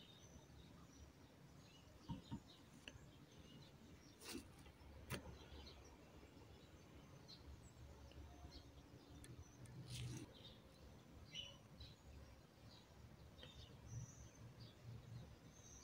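Near silence: faint birds chirping in the background over a low hum, with a few soft clicks.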